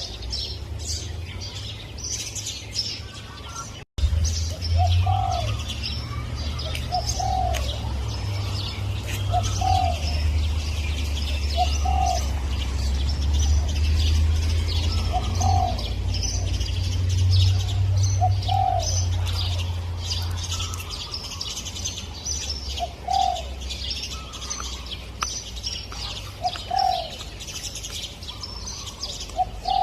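Spotted dove cooing: a short, low coo repeated every couple of seconds over the high chirping of small birds. A low rumble runs under the middle part, and the sound cuts out for an instant about four seconds in.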